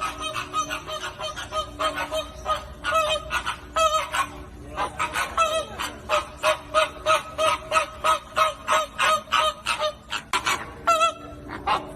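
A flock of flamingos honking: short, nasal calls, about four or five a second, overlapping from many birds.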